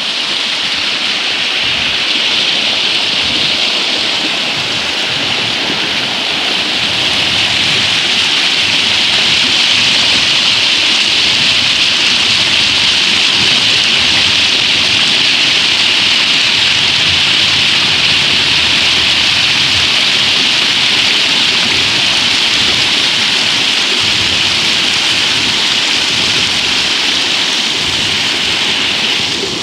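Flowing water of a stream rushing steadily, an even hiss that grows a little louder about seven seconds in and eases off near the end.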